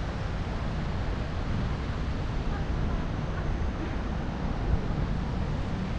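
Steady low rumbling rush of wind buffeting the microphone of a camera on a moving bicycle, with a single brief bump a little before the end.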